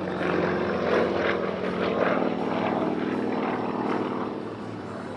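Sukhoi Su-29 aerobatic plane's 400-horsepower radial engine and propeller running during a manoeuvre, the pitch shifting up and down. It fades somewhat near the end.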